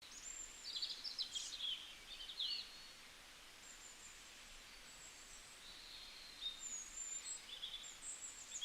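Small birds chirping and whistling faintly in short high-pitched phrases over a soft outdoor hiss, with a busy spell in the first two and a half seconds and another near the end.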